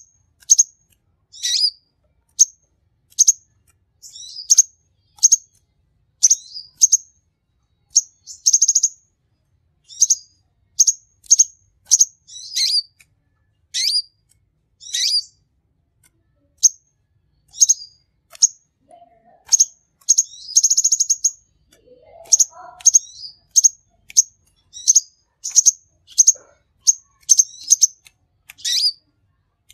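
Kolibri konin sunbird singing: a steady run of short, sharp, high chirps, about two a second, broken twice by a brief buzzy trill.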